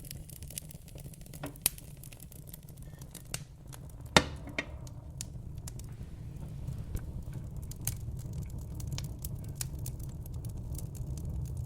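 Wood fire in a fireplace crackling, with frequent sharp pops and one much louder pop about four seconds in, over a low steady rumble.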